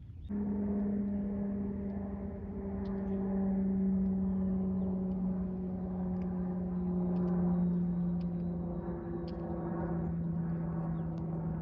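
A steady engine drone that sinks slowly in pitch, starting and stopping abruptly.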